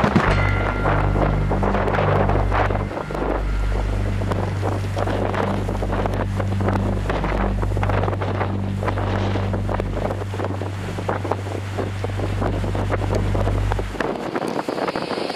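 Strong gusty wind buffeting the microphone, with a heavy low rumble and rushing gusts. The rumble drops away about a second before the end.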